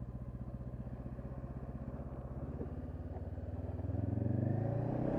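2013 Honda CB500X's parallel-twin engine with a Staintune exhaust, running steadily at low revs, then rising in speed and getting louder over the last second or two as the bike picks up pace.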